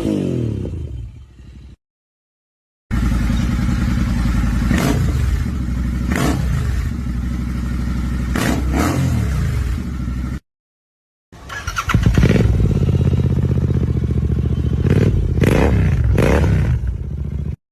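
Royal Enfield Continental GT 650 parallel-twin engine idling through different exhausts, with short throttle blips that rise and fall in pitch, several in each clip. Twice the sound cuts to silence for about a second before the next exhaust starts.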